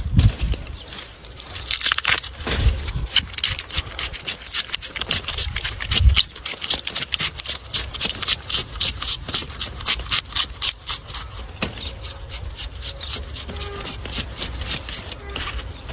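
Rapid, repeated scraping strokes, several a second, with a few heavier knocks early on and about six seconds in.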